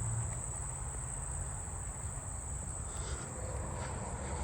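Handsome trigs (a small cricket) giving a steady high-pitched trill at close range, within a wider insect chorus, over a low rumble.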